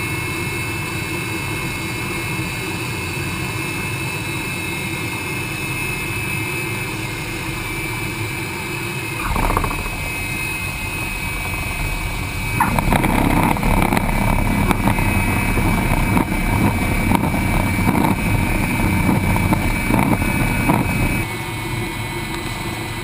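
L-29 Delfin jet trainer's single turbojet running steadily with a high, even whine. From about 13 s to 21 s a louder rushing noise joins it, then it settles back to the steady whine.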